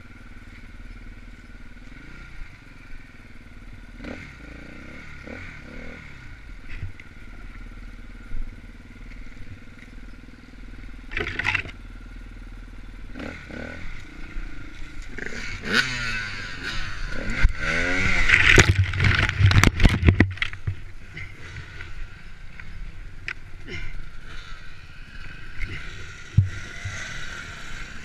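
Dirt bike engine running at low revs, then revved hard several times between about fifteen and twenty seconds in, its pitch rising and falling with each blip.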